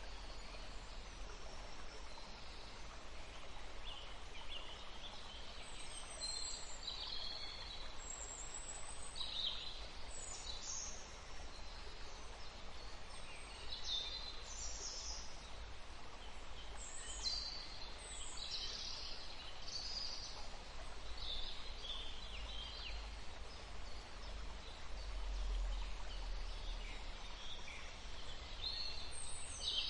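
Songbirds chirping: many short, high calls come one after another from several birds, over a faint, steady low rumble.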